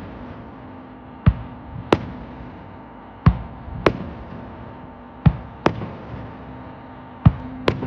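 Fireworks shells bursting: eight sharp bangs in pairs about half a second apart, a new pair roughly every two seconds, each ringing out briefly in echo.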